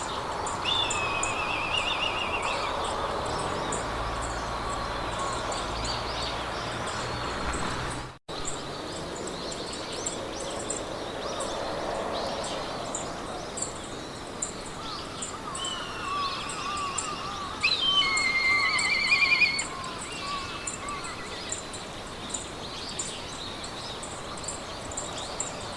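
Meadow ambience: songbirds singing short warbled and trilled phrases, the loudest about two-thirds of the way through, over a steady hiss of wind in the grass and a fast, even high ticking. The sound drops out for a moment about a third of the way in.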